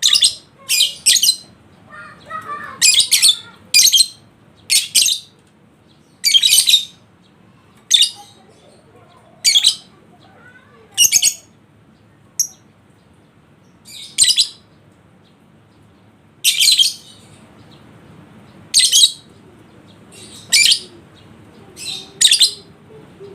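Lovebird giving loud, short, high-pitched chirping calls every second or two, some in quick pairs.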